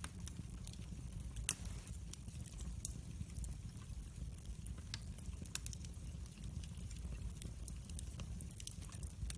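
Wood fire crackling, with irregular sharp pops and snaps over a low, steady rumble of flame. One pop about a second and a half in is louder than the rest.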